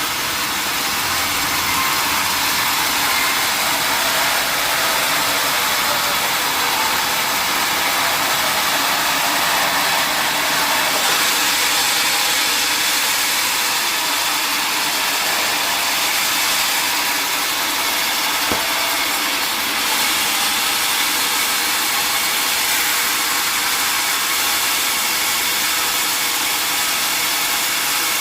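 An old sawmill's saw running, a loud steady noise that holds without a break.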